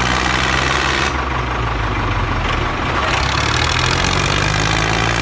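An engine running steadily at idle with an even, low hum.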